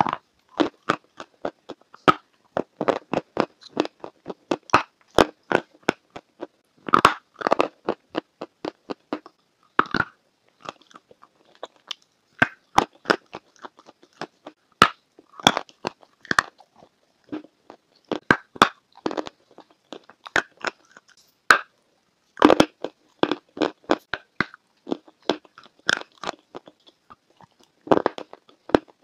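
Close-miked biting and chewing of cheesecake for ASMR: many short, sharp crackles that come in quick runs, broken by brief pauses.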